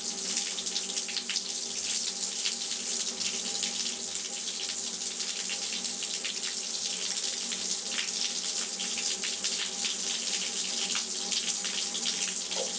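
Water running steadily from a hand-held shower head, a continuous hiss and patter with small irregular splashes, over a faint steady hum.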